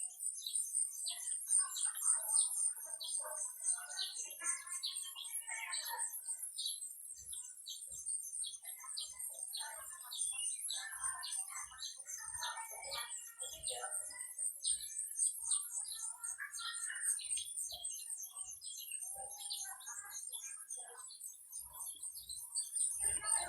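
Many small birds chirping and twittering together over a steady, high-pitched trill that never lets up.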